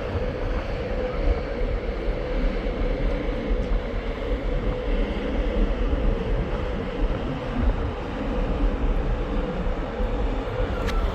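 Wind buffeting the microphone with a heavy low rumble, over a steady hum from the ship underway.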